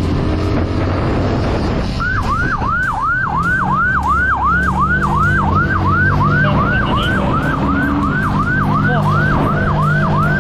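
Police siren switched on about two seconds in, a rapid yelp rising and falling about three times a second, over a vehicle engine running and wind noise.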